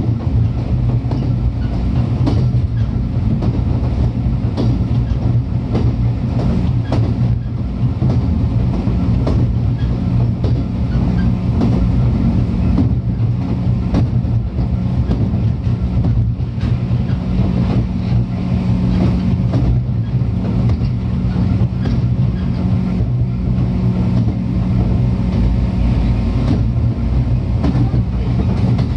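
JR 103 series electric train running along the track: a steady low running hum, with scattered clicks from the wheels crossing rail joints.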